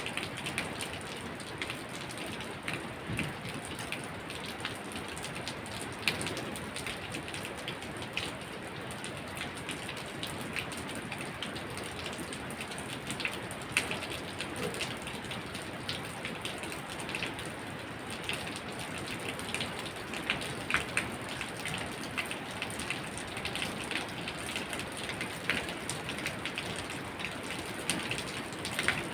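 Steady rain falling, with many sharp individual drops striking at irregular moments over the even hiss.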